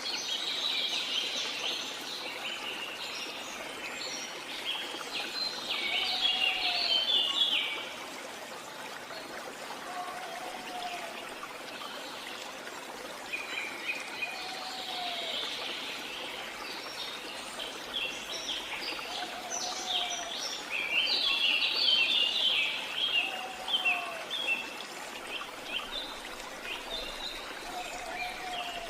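Waterfall or stream water running as a steady rush, with birds chattering and calling in bursts over it. A short, low call that rises then falls repeats about every three to four seconds.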